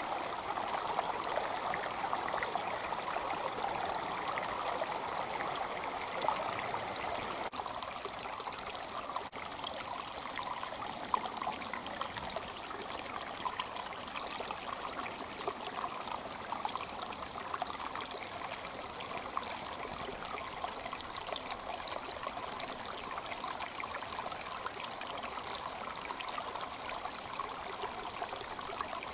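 A small creek running over rocks: steady rushing and trickling water.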